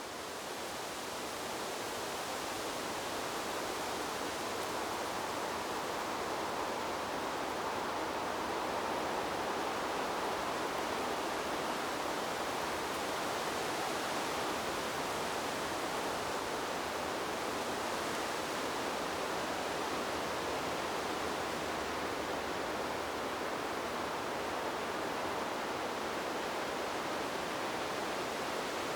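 Steady rushing noise of wind blowing through trees, swelling a little over the first couple of seconds and then holding even.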